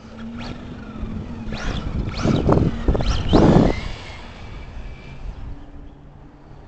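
Brushless electric motor of a Tamiya TT-01E radio-controlled truck whining up and falling back in pitch about four times as it accelerates and slows in quick bursts, with wind rumbling on the microphone.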